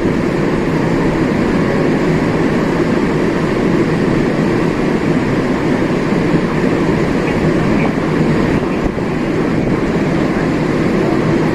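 Steady noise of a large ferry under way, heard on its open deck: a constant low drone mixed with rushing wind and water.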